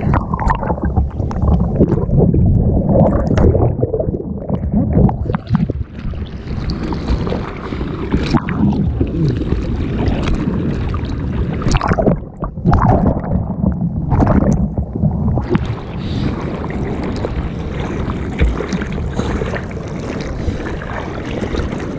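Seawater rushing and splashing over a board-mounted action camera in the surf, with wind buffeting the microphone. Sharp splashes break through every few seconds, and the sound turns briefly muffled around the middle.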